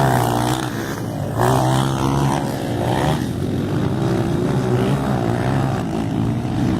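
Motocross bikes' engines revving on the track, more than one at once, their pitch repeatedly rising and falling as the riders open and close the throttle.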